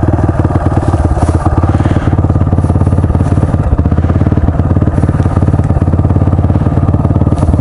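Honda CRF dual-sport motorcycle's single-cylinder engine idling steadily, an even run of firing pulses with no change in pitch.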